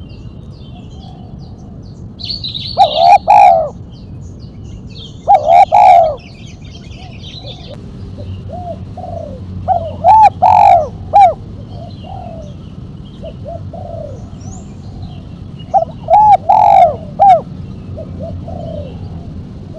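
Spotted dove (tekukur) cooing its sharp 'mercik' song in repeated phrases: four loud phrases about every three to six seconds, with softer coos between. Small birds chirp faintly and high in the background.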